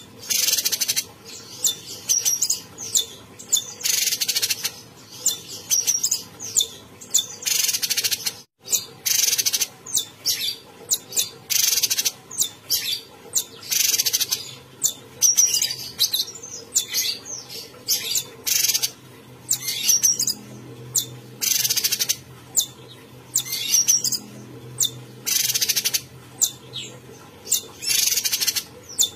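A cucak cungkok, a caged Indonesian songbird, calling in full voice. It gives short bursts of high, sharp chirps and whistles, repeated every second or two with brief pauses between.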